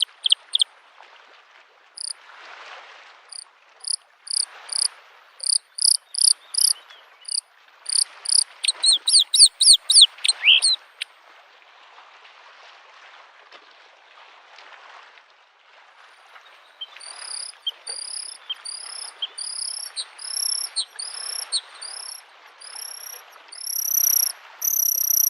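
Bluethroat singing: runs of high, ringing repeated notes, a quick series of falling whistles about ten seconds in, a pause of several seconds, then a new run of repeated notes that grows louder near the end. Beneath it, small lake waves lap at the shore in soft swells of hiss.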